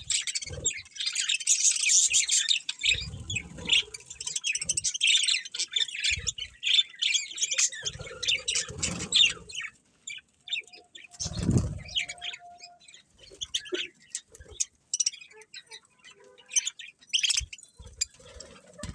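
Budgerigars chirping in a dense, rapid chatter that thins to scattered chirps about halfway through, with a few dull low thumps along the way.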